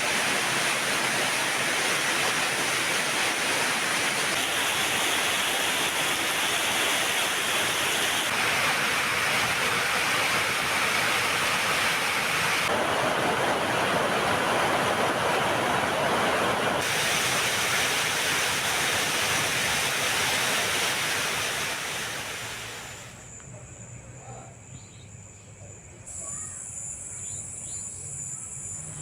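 Heavy rain pouring down, a loud steady hiss that changes abruptly every few seconds as takes are cut together. About 22 seconds in it fades away, leaving a much quieter background with a steady high tone and faint chirps.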